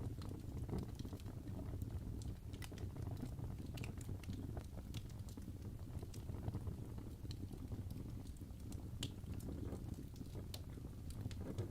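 Crackling wood fire: scattered sharp pops and snaps at irregular moments over a steady low rumble.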